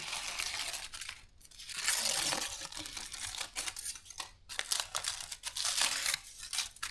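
Crinkling and tearing of a wrapping being pulled open from cooked food, in irregular rustling bursts, loudest about two seconds in.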